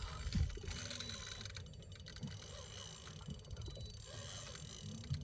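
Steady low rumble aboard a fishing boat, with a single knock about half a second in.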